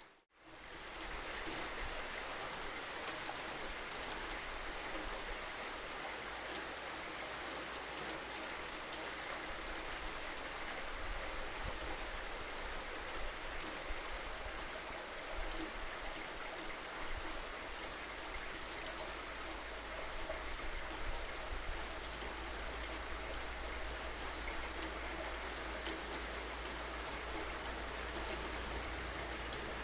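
Steady rainfall, an even hiss of drops with no let-up. There is a split-second cut to silence right at the start.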